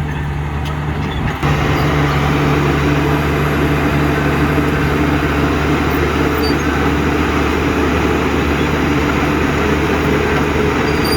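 Heavy diesel engine of construction machinery running steadily. It becomes suddenly louder and fuller about a second and a half in.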